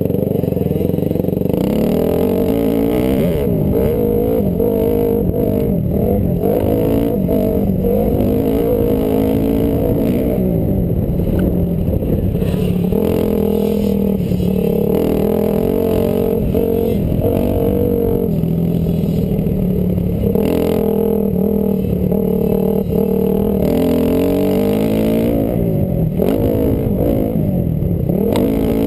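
Honda CRF250R's single-cylinder four-stroke engine being ridden hard, its pitch climbing and dropping again and again as the throttle is opened and closed.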